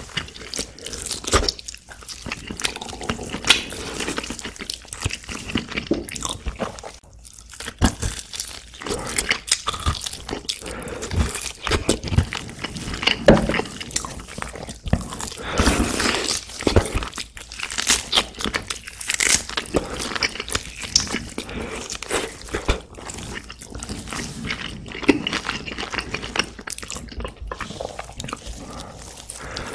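Close-miked eating of saucy braised pork back ribs: a continuous run of wet chewing, biting and mouth smacking, heard as irregular clicks.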